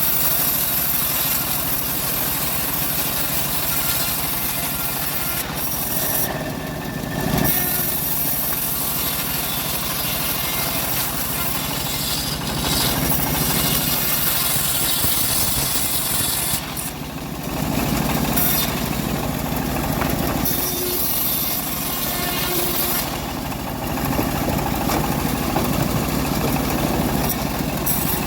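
Home-built engine-driven bandsaw mill running steadily while it saws through a log. The sound eases briefly three times, about a quarter, three fifths and four fifths of the way through.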